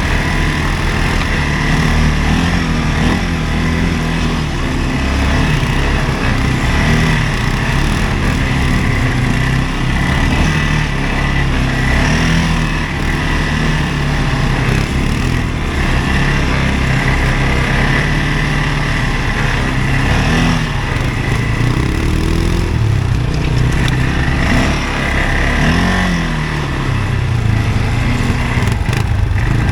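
CFMoto ATV engine running steadily under way, its note rising and falling a few times in the second half as the throttle changes.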